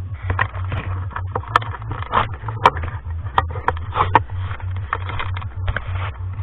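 Irregular clicks, taps and short scrapes of small metal typewriter parts being handled and worked on, over a steady low hum.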